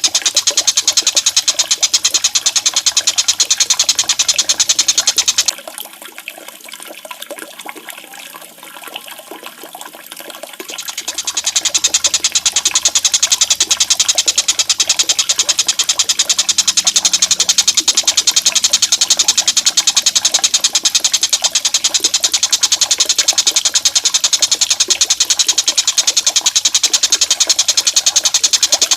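Running, splashing water, a dense steady rush strongest in the high range, which suddenly drops away about five seconds in and builds back up about six seconds later.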